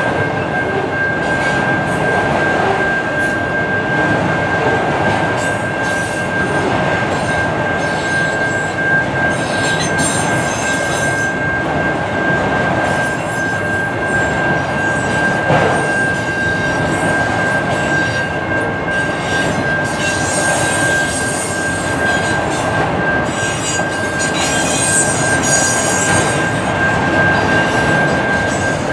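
Railroad cars rolling steadily past, with a single high wheel squeal held throughout and scattered shorter squeaks above it.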